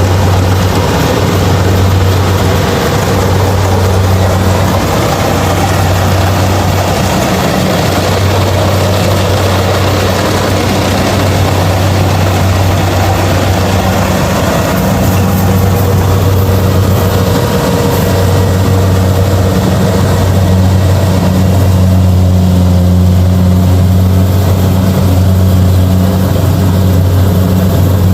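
Kubota DC-70 rice combine harvester running under load: a loud, steady engine drone with a constant deep hum and a wash of mechanical noise over it.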